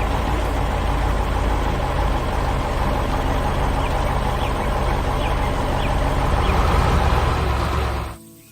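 Heavy diesel machine engine running steadily, a construction-vehicle sound effect, that cuts off suddenly near the end.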